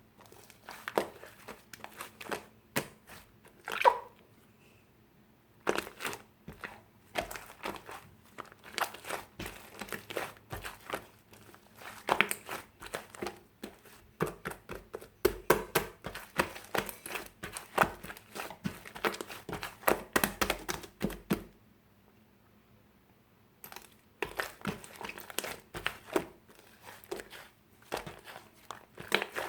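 Slime being kneaded and squished by hand while clay is mixed into it, giving fast runs of wet clicks and pops. The sound stops briefly about five seconds in and again about twenty-two seconds in.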